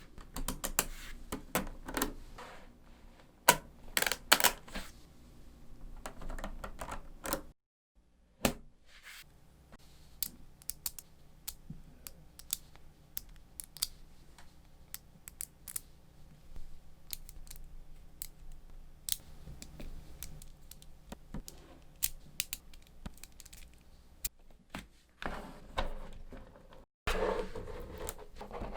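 Small magnetic balls clicking and clattering against one another as they are snapped together and pulled apart: an irregular run of sharp little clicks, with busier clusters of clatter in the first few seconds and again near the end.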